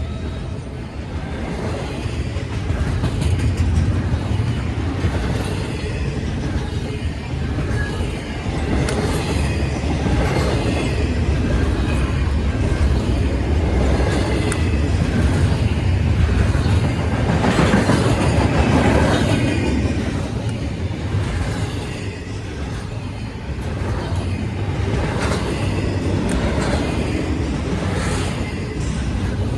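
A train rolling past close by: a steady rumble of wheels on rail with repeated clicks, swelling somewhat a little over halfway through.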